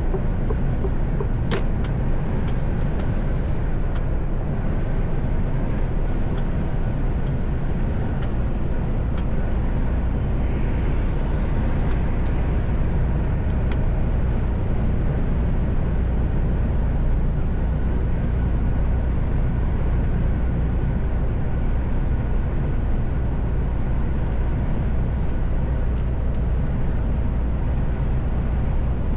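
Mercedes-Benz Actros L truck on the move: engine and road noise as a steady low rumble, with a couple of short clicks.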